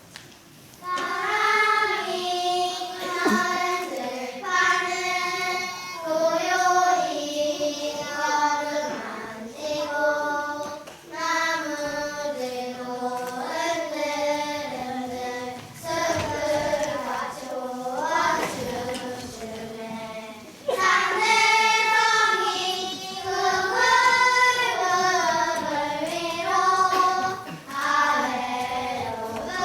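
A group of young children singing a song together in unison, starting about a second in. The singing dips briefly about twenty seconds in and comes back louder.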